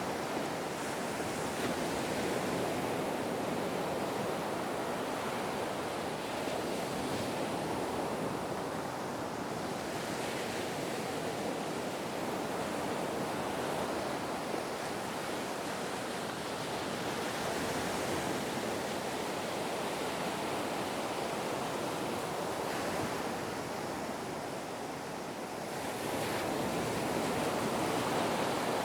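Ocean surf: waves breaking and washing in as a continuous rushing that swells and eases every few seconds.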